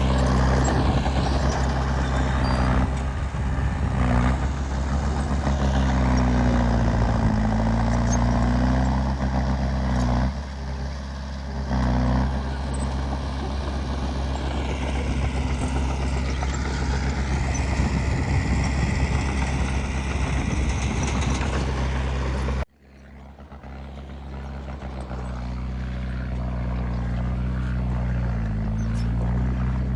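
Heavy diesel engines of earthmoving machinery (a bulldozer and a dump truck) running under load, their revs rising and falling. About three-quarters of the way through, the sound cuts off abruptly, then comes back and builds up over a few seconds.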